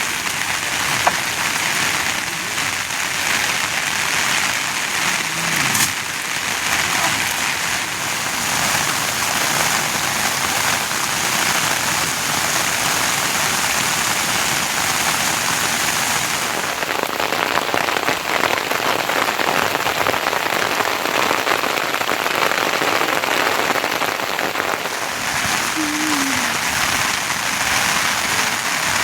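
Steady monsoon rain falling.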